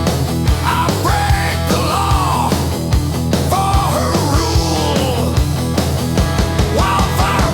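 Hard rock music with a steady driving drum beat and a melodic lead line that bends up and down in pitch.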